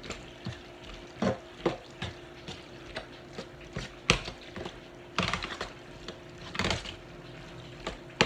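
Kitchen handling sounds as cheese is added to a pan of macaroni: irregular clicks, knocks and short rustles of packaging, dishes and utensils, over a steady low hum.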